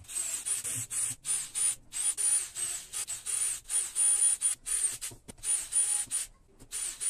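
Hissing spray in about a dozen short, uneven bursts, each carrying a thin high whistle, like a trigger being pulled and released again and again.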